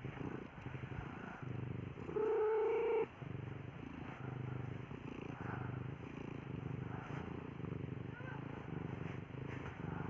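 Cat purring with newborn kittens, a low purr pulsing in a slow, even rhythm. About two seconds in, a louder steady tone lasts about a second.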